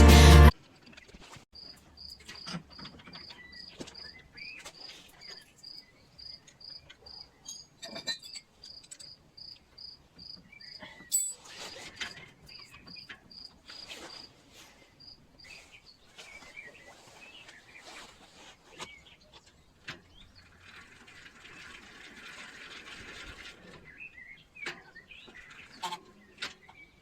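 A high chirp repeated evenly about twice a second, stopping about sixteen seconds in, with scattered bird-like calls and light knocks around it.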